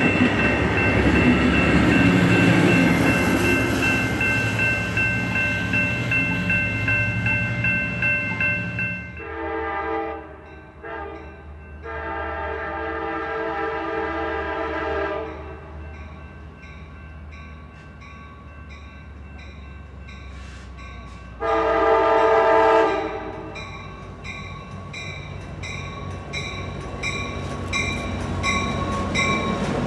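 Passenger train running by, then a locomotive horn: three blasts about 9 to 15 seconds in, the last one long, and another blast about 22 seconds in. A high ringing repeats about once a second through the second half.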